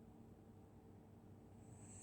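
Near silence: a pause between a sleeping dog's snores, with the hiss of the next snoring breath just starting near the end.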